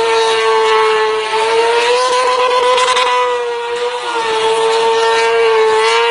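Motorcycle engine held at steady high revs, its pitch rising and dipping slightly now and then.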